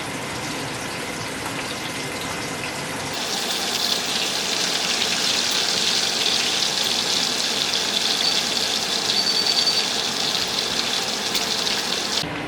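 Water running from a kitchen tap, a steady rushing stream that grows louder and hissier about three seconds in, then stops abruptly near the end.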